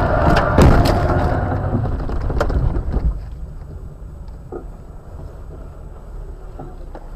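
Low rumble of a car on the move, picked up by a dashcam, with several sharp knocks in the first three seconds; after that the rumble carries on more quietly.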